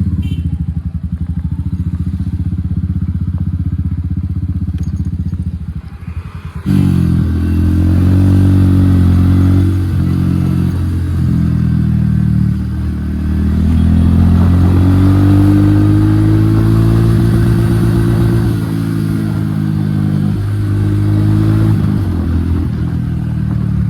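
Royal Enfield Hunter 350's single-cylinder engine running through an aftermarket HK exhaust with the dB killer removed. A steady low engine note at first, then about seven seconds in it turns suddenly louder and fuller, its pitch rising and falling as the bike is ridden, with one long rise in pitch near the middle.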